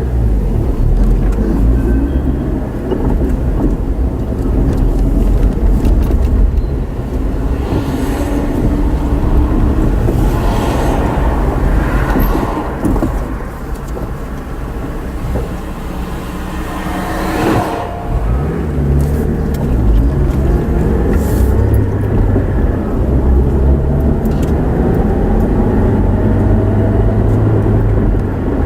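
Car on the move: steady engine hum and road rumble, the engine note gliding up and down with speed. Several brief louder swells of noise come from other vehicles passing.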